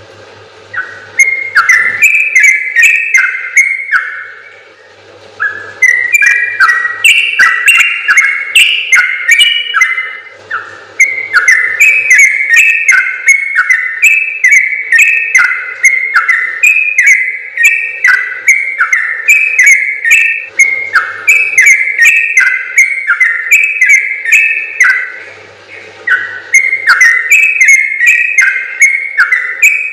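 Yellow-vented bulbul (trucukan) singing a long, rapid run of bubbly, chattering notes, in bouts broken by brief pauses about 4, 10 and 25 seconds in.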